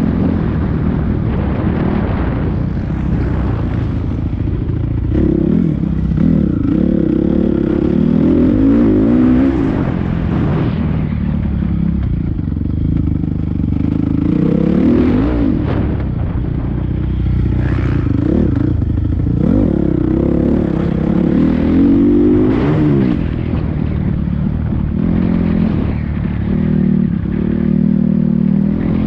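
Motocross bike engine being ridden hard, revving up and falling back again and again as the rider works the throttle and gears.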